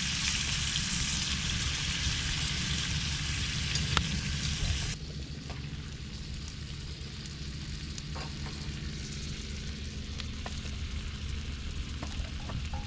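Food sizzling as it cooks, a loud steady hiss for about five seconds that cuts off abruptly, leaving a quieter background with a low hum and a few faint clicks.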